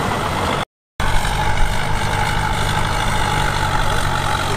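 Heavy diesel engine of earth-moving machinery running steadily, with a short dead gap under a second in where the sound cuts out completely before resuming.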